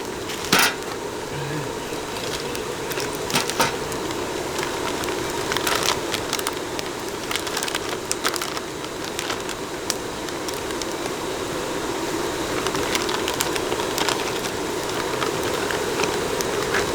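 A gentle stream flowing steadily, with scattered sharp crackles and clicks over it.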